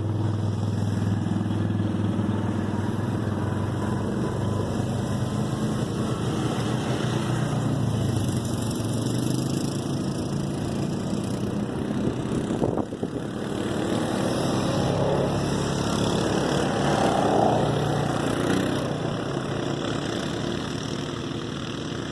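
Four-wheeler (ATV) engines running, a steady low drone that slowly rises and falls, dipping briefly about two thirds of the way through.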